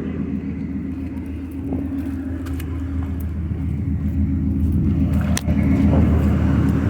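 Car engine running at idle, a steady low hum that grows a little louder in the second half, with a brief knock about five seconds in.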